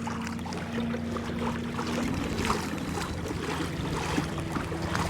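The electric trolling motor of an Old Town Autopilot 120 kayak hums steadily as it moves the kayak a short way, with water splashing and lapping at the hull. A clearer tone in the hum fades about two seconds in.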